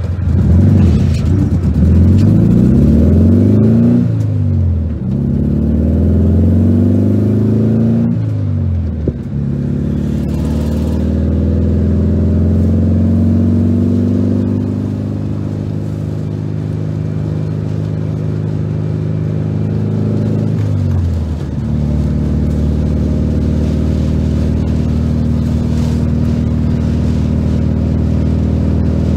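1973 VW Super Beetle's air-cooled flat-four on dual Weber carburettors, heard from inside the cabin, accelerating away through the gears. The engine note climbs, drops at each of three upshifts, and settles into a steady cruise for the last third.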